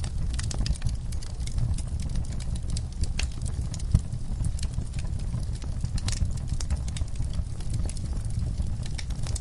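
Wood fire crackling in a fireplace: irregular sharp pops and snaps over a steady low rumble of the flames, with one louder pop about four seconds in.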